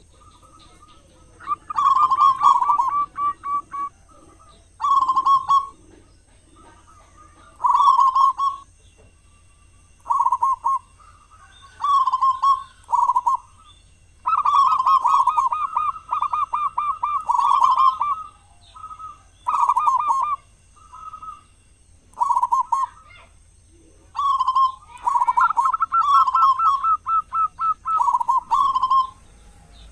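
Local perkutut (zebra dove) singing: repeated rolling, stuttering coo phrases, one every one to three seconds, with one long drawn-out phrase about halfway through.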